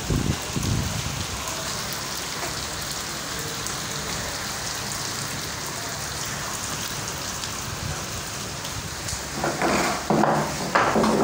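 Heavy rain falling steadily, a constant hiss. In the last couple of seconds it is joined by louder, uneven low bursts of noise.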